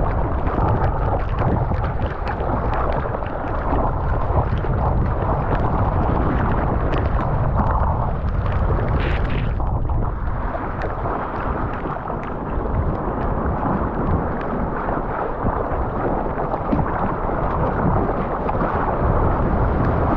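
Strong wind buffeting the microphone, a constant low rumble, mixed with water sloshing around the surfer in 25-knot wind. A short, brighter burst of noise about nine seconds in.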